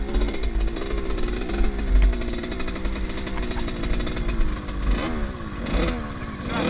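Off-road motorcycle engine running as the bike is ridden, with a few quick revs rising and falling near the end.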